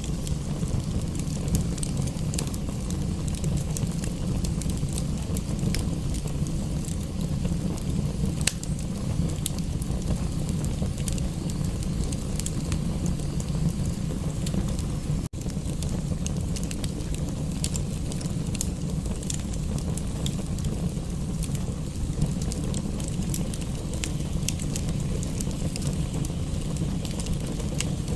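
Wood fire crackling, with scattered sharp pops over a steady low rumble. The sound cuts out for an instant about fifteen seconds in.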